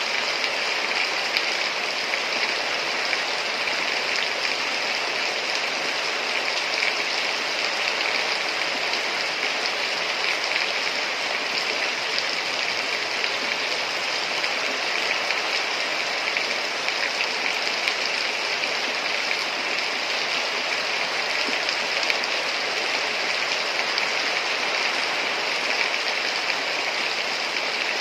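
Heavy rain falling steadily: an even hiss that holds the same level throughout, with no thunder or separate drops standing out.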